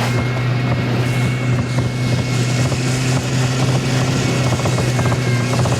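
Engine of a small all-wheel-drive vehicle running at steady, unchanging revs as its tractor-track-shoe wheels churn through snow.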